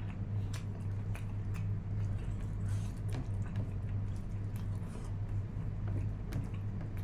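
Close-miked chewing and mouth sounds of a person eating: irregular small clicks and squishes, over a steady low hum.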